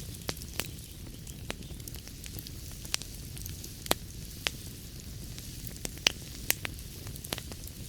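Wood fire burning in a fireplace: a low steady rumble and hiss with irregular sharp crackles and pops, a dozen or so, a few of them louder.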